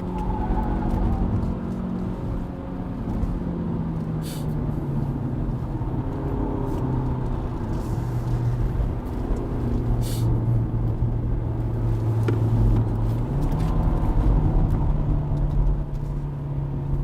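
Hyundai Avante (CN7) four-cylinder engine droning steadily under load inside the cabin, over road and tyre noise. Its pitch stays nearly constant, dropping a little about three seconds in and rising again about thirteen seconds in. A few short clicks sound, one near four seconds and one near ten.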